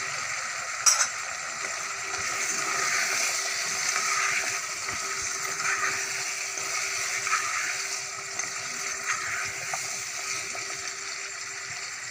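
Potato cubes sizzling in ghee and tomato-onion masala in a pot as they are stirred in with a plastic spatula, a steady frying hiss with small crackles and a sharp click about a second in.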